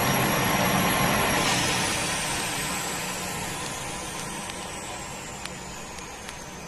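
A turbine engine winding down: its high whine starts falling slowly in pitch about a second and a half in, and the engine noise fades steadily, as after an engine switch-off.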